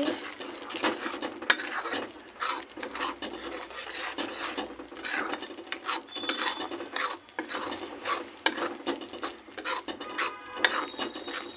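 A spatula stirring and scraping thick spiced onion-tomato masala around a kadhai, in repeated irregular scrapes with short knocks against the pan.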